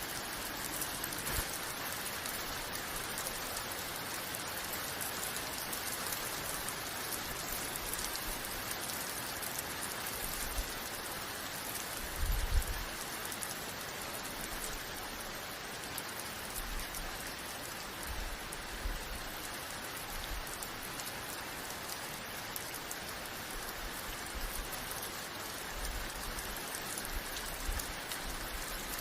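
Steady rain falling and pattering on a surface, an even hiss of many drops. Now and then a short low rumble rises under it, loudest about twelve seconds in.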